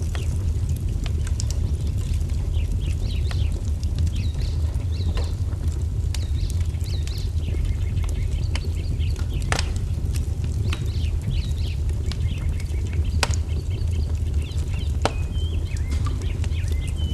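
Wood fire crackling, with a few sharp pops, over a steady low rumble, while songbirds chirp and twitter throughout.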